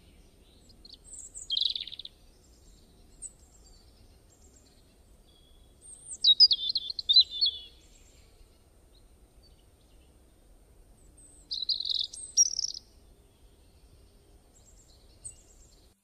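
Birds chirping in three short bursts of quick twittering song: one about a second and a half in, a longer one from about six to seven and a half seconds, and one around twelve seconds, over a faint low background hum.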